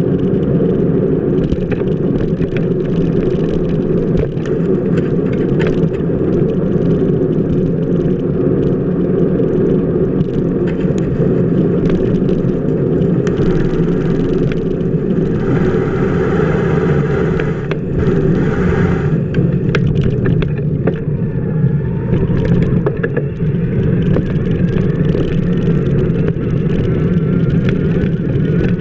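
Bicycle wheel rolling over wet pavement, heard from a camera mounted on the wheel hub: a loud steady rumble with scattered clicks and knocks, and a stronger hiss for a few seconds past the middle.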